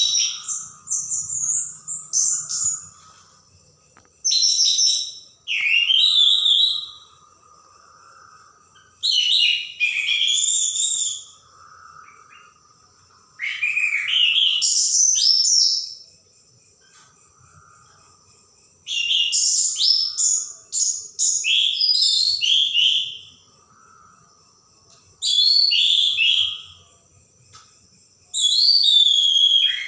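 Orange-headed thrush singing: about ten loud phrases of rich, sliding whistles, each one to two and a half seconds long, with pauses of a few seconds between them.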